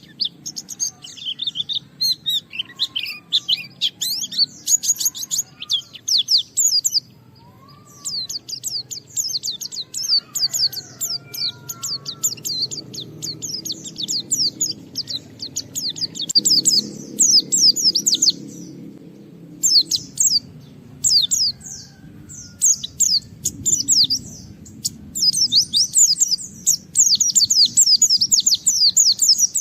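White-eye (pleci) singing a rapid, high, chattering song in long, dense runs of quick falling notes, with short breaks about seven and twenty seconds in. This is vigorous full song, the kind of territorial singing meant to provoke other white-eyes into singing.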